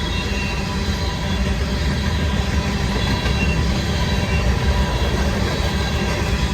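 Empty grain train rolling past: a steady rumble of steel wheels on rail, with faint high wheel squeal now and then.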